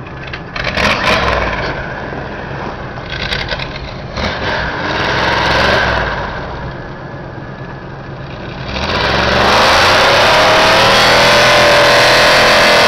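Mud truck's engine revving: running at moderate revs with a brief rise about five seconds in, then opened up and held at high revs, loud, from about nine seconds in.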